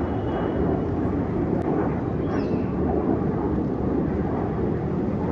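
Aircraft flying over at an air show: a steady, even engine rumble heard outdoors from the ground.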